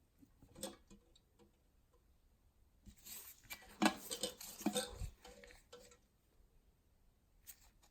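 Hard clicks and clinks of small parts being handled, with a burst of rattling and knocks about three to six seconds in.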